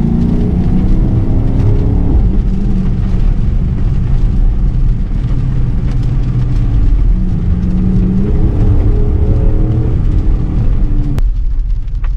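A 2013 Dodge Charger R/T's 5.7-litre Hemi V8 accelerating hard, its revs climbing, levelling off and climbing again, over a steady hiss of tyres on a wet road. The hiss drops away about eleven seconds in.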